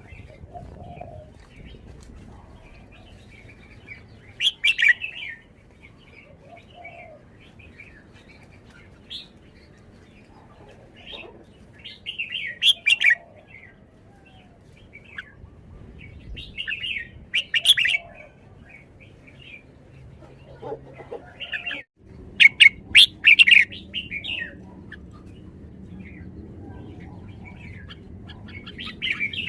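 Red-whiskered bulbul singing: short, loud, bright phrases every few seconds, about five in all, with softer chirps in between.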